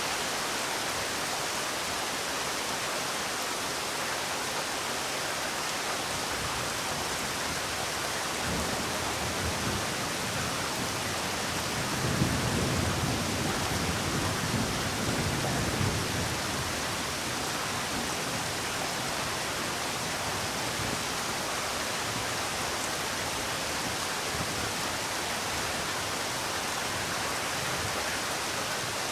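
Steady rainfall hissing evenly, with a low rumble swelling for a few seconds near the middle.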